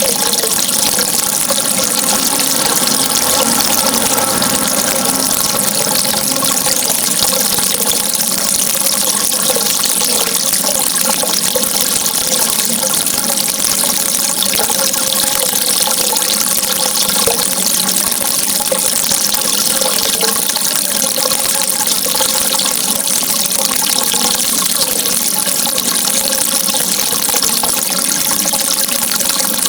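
Running water rushing steadily, an even unbroken wash of sound.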